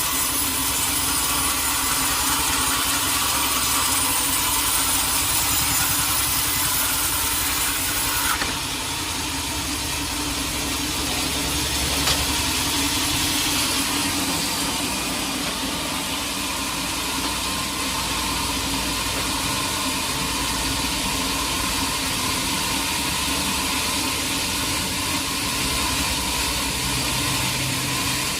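Sawmill machinery running steadily, with an engine's drone under it. The high-pitched part of the sound drops off suddenly about eight seconds in.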